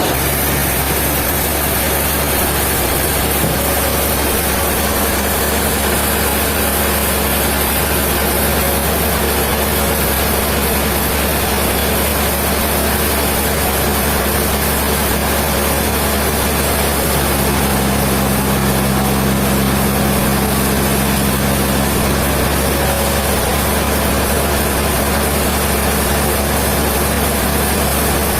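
Sawmill machinery running steadily with a dense mechanical noise and a deep hum. A lower engine note strengthens for a few seconds past the middle, then eases.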